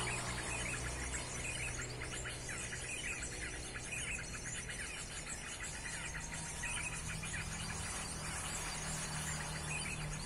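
Dense, rapid bird chirps from a lure recording of mixed bird species' calls, played to draw birds into a net. Underneath runs a low steady hum of road traffic.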